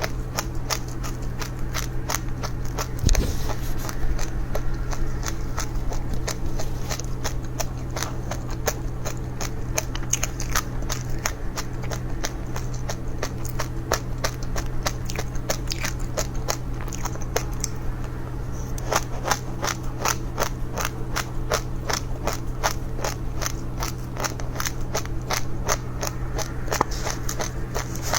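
Close-up crunching of dry seeds being bitten and chewed, a quick run of sharp crackly cracks about four a second, over a steady low hum.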